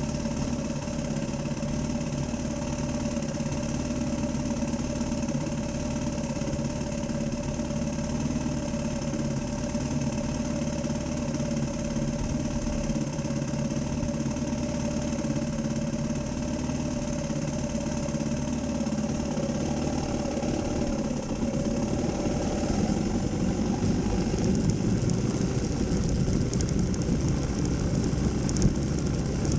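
Dirt bike engine running at a steady pitch, getting louder and rougher about two-thirds of the way through.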